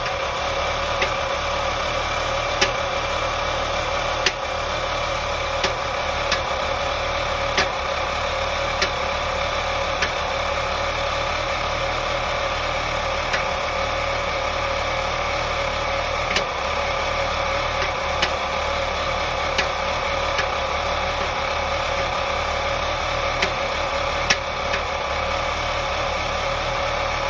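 2001 BMW 525i's M54 2.5-litre inline-six idling, with sharp knocks at irregular intervals, about one every second or two. The owner is fairly confident the knock is a misfire caused by loose spark plugs.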